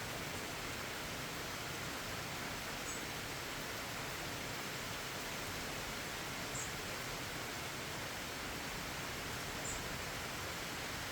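Steady rain falling, an even hiss with no let-up. Three short high chirps sound over it, about 3, 6.5 and 9.5 seconds in.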